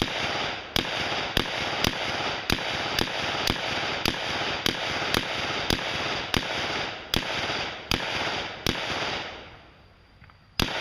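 Semi-automatic gunfire from a 9mm AR-pattern carbine with a 10.5-inch upper, firing a steady string of shots about every 0.6 seconds, each shot echoing. The string stops about nine seconds in, and two quick shots follow near the end.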